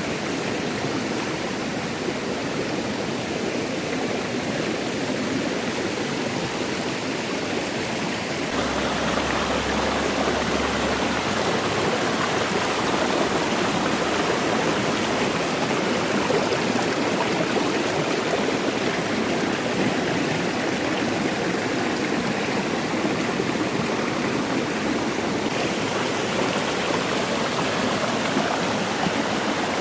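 A forest stream's running water, a steady rushing wash. It becomes fuller and louder about eight seconds in.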